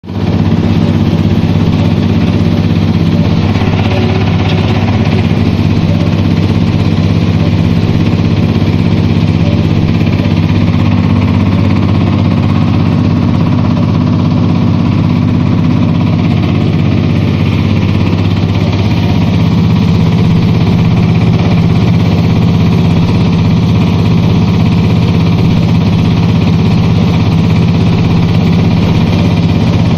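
N9 diesel engine running steadily at a constant speed: a loud, even drone, its tone shifting slightly about eighteen seconds in.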